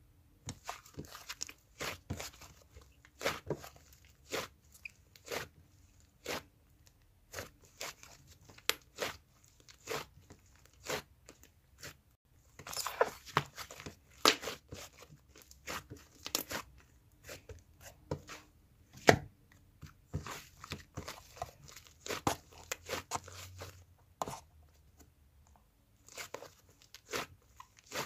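Irregular crisp crunching and clicking, a few sharp snaps a second, busier in stretches.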